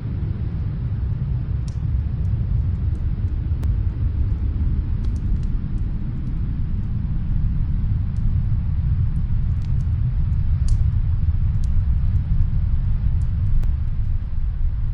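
Steady, low rumble of snowstorm wind, with sparse faint crackles and pops from a wood fire in another room.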